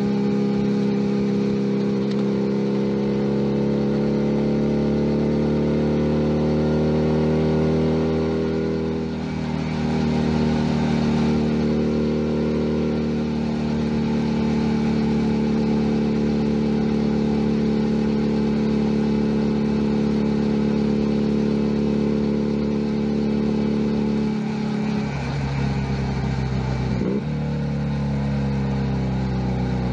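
Junak M11 Cafe's 125 cc four-stroke engine running under way. The revs climb slowly at first, dip briefly about nine seconds in, then hold steady, and fall off twice in the last few seconds.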